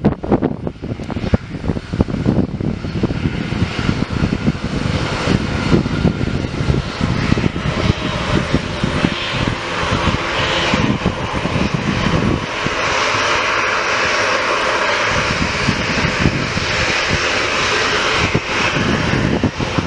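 Airliner engines running close by, a steady low rumble with a rushing noise that builds from about halfway through and is loudest near the end.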